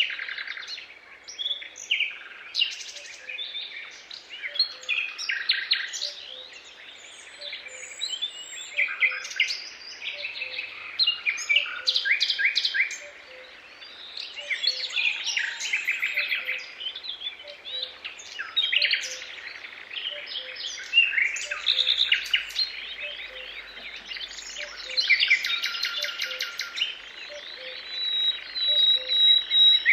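Several songbirds singing and chirping at once in quick overlapping trills and calls, with a faint low note repeating steadily underneath.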